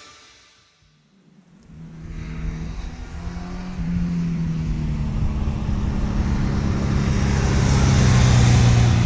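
Rock guitar music fading out at the start, then, after a short near-silence, a motorcycle engine running at a steady cruise. The engine grows gradually louder, with wind and road noise building toward the end.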